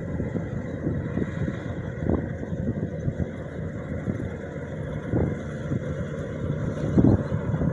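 Maxxi 85 rice combine harvester running: a steady engine drone with irregular knocks and rattles, growing louder near the end.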